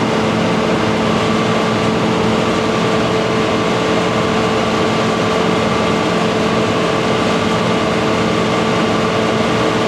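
John Deere 9500 combine's diesel engine running steadily once warmed up, with a steady mechanical whine in several tones over it.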